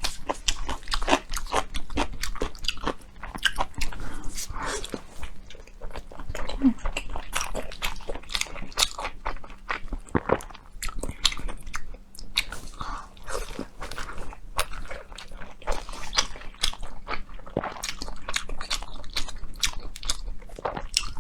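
Close-up eating sounds: a person biting and chewing food, with many sharp crunchy clicks, several a second.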